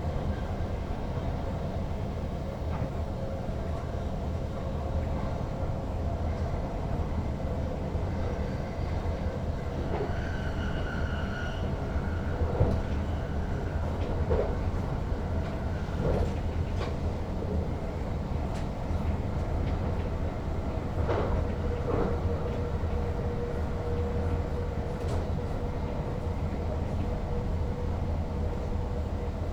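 NS Sprinter Lighttrain (SLT) electric multiple unit running, heard from the driver's cab: a steady low rumble with a constant electric hum. A brief high tone sounds about ten seconds in, and a few sharp clicks come through the middle of the stretch.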